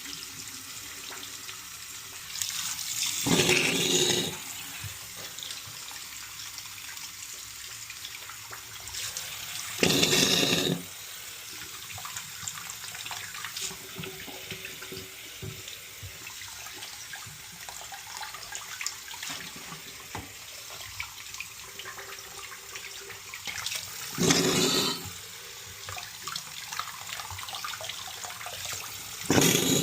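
Tap water running into a sink as debris from a furnace heat exchanger is rinsed out. The flow is steady, with four louder surges of water about 3 s, 10 s and 24 s in and at the end.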